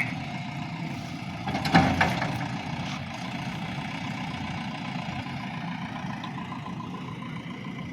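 Diesel engine of a JCB 3DX backhoe loader running steadily, with a brief louder noise about two seconds in.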